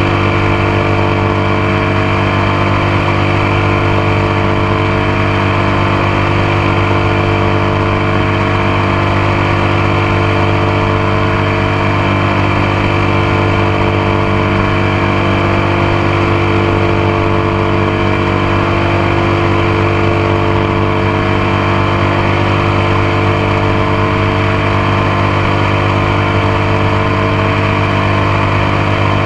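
Motorcycle engine running at a steady, unchanging speed, heard close up from the passenger foot peg, with a hiss of wind and road noise underneath.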